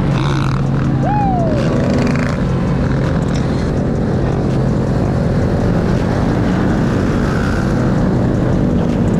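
Mini bike engines running steadily, with wind noise on the microphone and a short rising-and-falling whoop about a second in.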